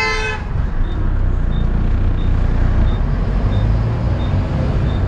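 Volvo B7TL bus's six-cylinder diesel engine running with a steady low rumble, heard from on board. A held pitched tone cuts off about half a second in, and a faint tick repeats about every 0.7 s.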